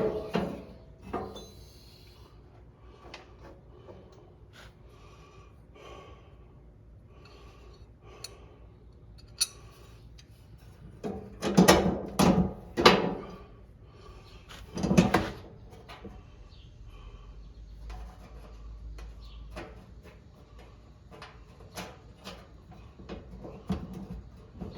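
Parts and tools being handled during hand work on the lawn tractor's headlight assembly: scattered light clicks and knocks, with a louder run of knocks about halfway through and another shortly after.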